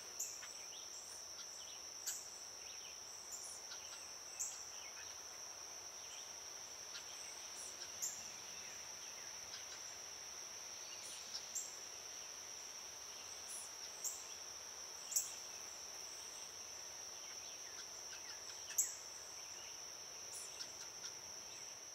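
Steady high-pitched trill of crickets or similar insects, with scattered sharp ticks or taps at irregular intervals, two of them louder near the end.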